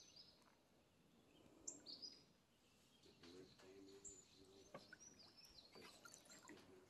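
Near silence with a few faint bird chirps, short falling notes that come now and then.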